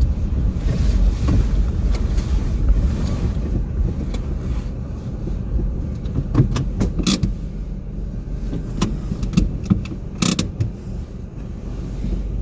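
Motor vehicle running, a steady low rumble, with a few sharp clicks or knocks about six to seven seconds in and again about ten seconds in.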